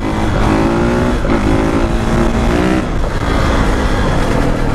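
Kawasaki KX450 dirt bike's four-stroke single-cylinder engine accelerating hard for a wheelie, its pitch climbing twice with an upshift between, then easing off to a steadier, lower note about three seconds in.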